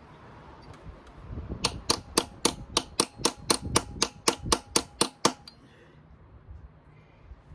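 A hammer tapping on metal in a quick, even series, about fourteen blows at roughly four a second, with a light metallic ring. The taps start about one and a half seconds in and stop suddenly after about five seconds.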